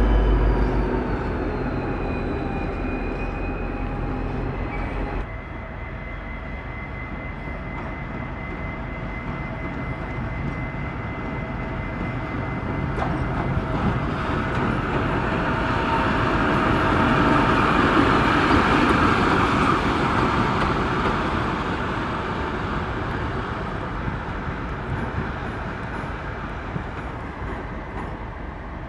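A train passing. Its engine hum falls in pitch over the first few seconds, then changes abruptly to a rushing wheel-and-rail noise that swells to a peak midway and fades away.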